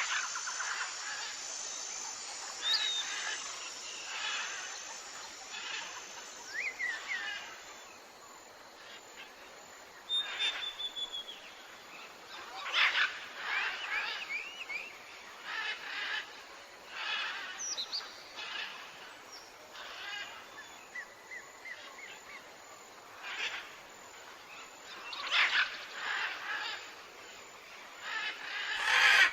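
Birds calling and chirping: many short calls, some sliding quickly up or down in pitch, coming every second or so.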